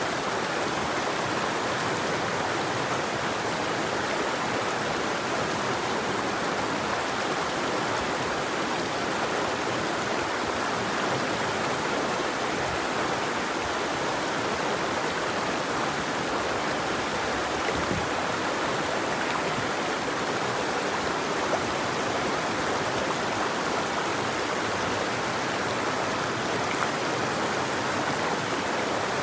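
River water flowing: a steady, even rushing with no breaks.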